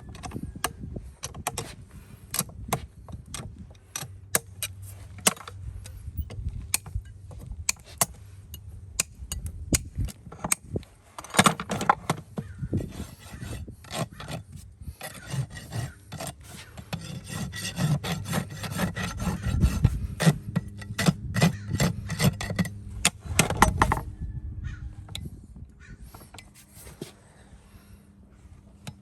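Farrier's rasp filing a horse's hoof in repeated strokes, with sharp scraping clicks throughout. The rasping gets denser and louder in the middle stretch and thins out near the end.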